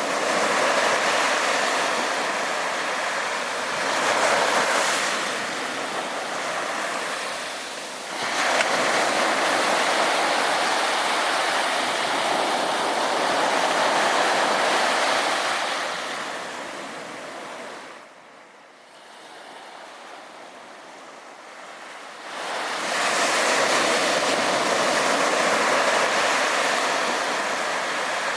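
Sea waves breaking and washing up the beach in repeated surges, each lasting several seconds, with a quieter lull about two-thirds of the way through.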